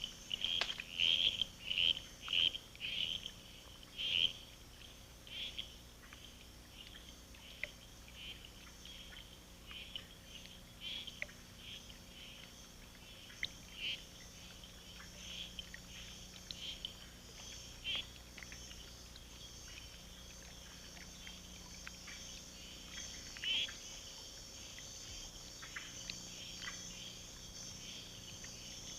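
Tropical night chorus: frogs giving short, sharp calls, a quick run of about eight in the first four seconds and then scattered single calls, over a steady high trilling of insects.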